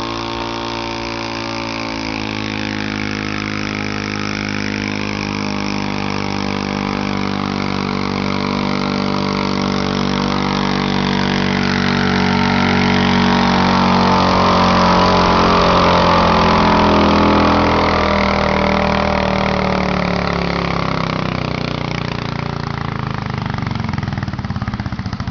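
Quarter-scale pulling tractor's engine running hard without a break, growing louder toward the middle and then easing off, its pitch falling over the last several seconds as it bogs under the load.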